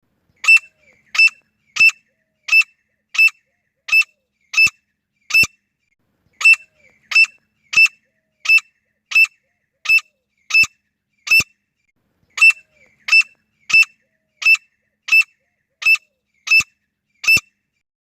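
Female grey francolin calling: a sharp, high call repeated evenly about every two-thirds of a second, in three runs of eight with a brief pause between runs.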